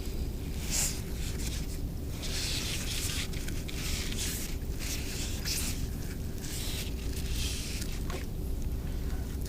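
Scratchy rustling and scraping of bulky twine being wound and pressed onto a foam egg, in several short strokes over a steady low hum.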